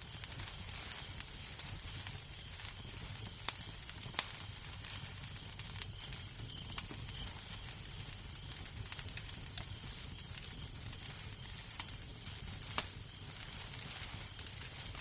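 Wood fire crackling in a fireplace: a steady hiss over a low rumble, broken by scattered sharp pops.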